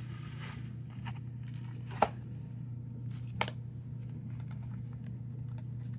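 A few light clicks and knocks from the plastic parts of a compact carpet cleaner being moved and handled, the sharpest about two seconds in, over a steady low hum.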